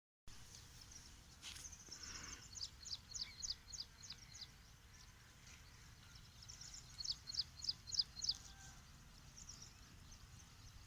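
A small songbird singing two phrases, each a run of quick, high, down-slurred notes about two seconds long, over a steady low rumble.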